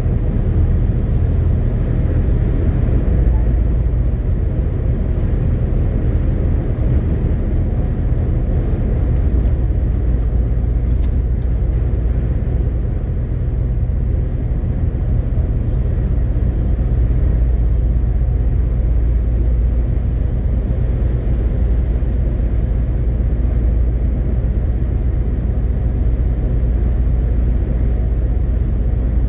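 MAN TGX 18.520 truck's six-cylinder diesel engine running steadily on the road, with a constant low drone and road noise. A few faint short ticks come about ten seconds in.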